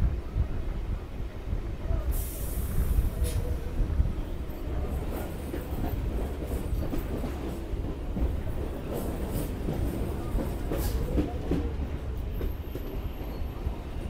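Suburban electric local train (EMU) running along the track, heard from the open doorway of a coach: a steady low rumble of wheels on rail, with a few sharp clacks over rail joints about two seconds in and again around nine to eleven seconds.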